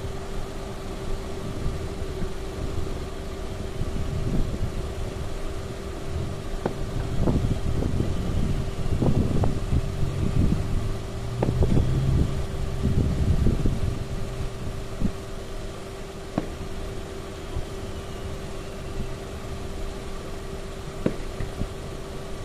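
Aerial fireworks bursting: a dense run of low booms and crackling bangs, heaviest from about four to fourteen seconds in, then a few single sharp bangs, over a steady hum.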